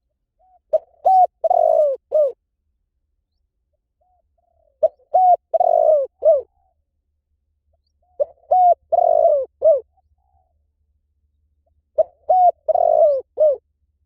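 Spotted dove cooing: four repeated phrases, each a quick run of several short, low coo notes, spaced about four seconds apart.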